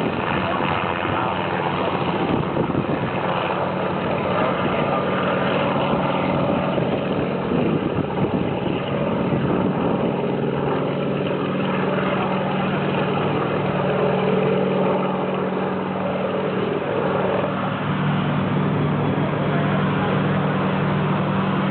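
Sikorsky H-34 helicopter running, its nine-cylinder radial piston engine and main rotor heard together in one steady, loud sound. A deeper engine hum grows stronger near the end.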